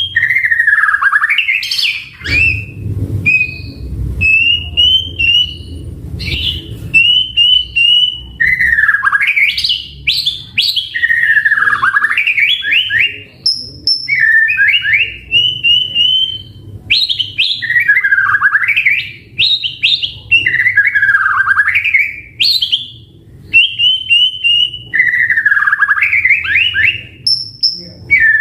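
White-rumped shama (murai batu) singing loudly and continuously: phrases of swooping notes that dip low and climb back, alternating with quick runs of short repeated whistled notes.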